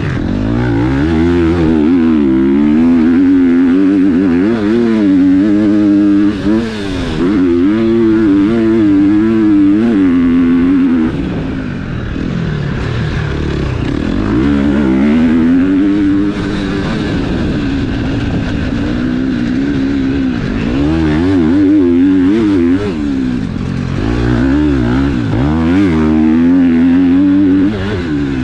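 KTM four-stroke motocross bike engine being ridden hard, revving up and dropping back again and again as the throttle opens and closes and the gears change.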